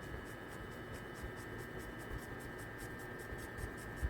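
A drawing tool scratching on paper in quick, short repeated strokes, several a second, as lines are sketched in.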